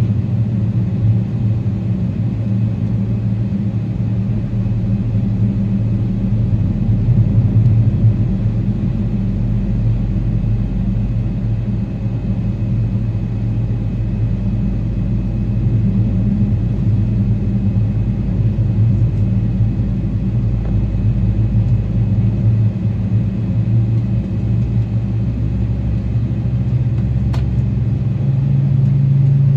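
Steady low rumble and hum inside the cabin of a Boeing 777-300ER taxiing, its GE90-115B engines at low thrust. Near the end the hum steps up in pitch.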